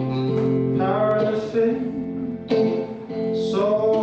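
A solo singer performing a slow song to a strummed acoustic guitar. One strum falls at the start and another about two and a half seconds in, with sung notes held between them.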